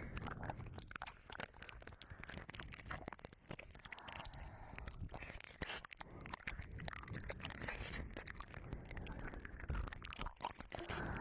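Close-up wet mouth sounds and licking against the ear of a 3Dio binaural microphone: a dense, irregular run of small wet clicks and smacks.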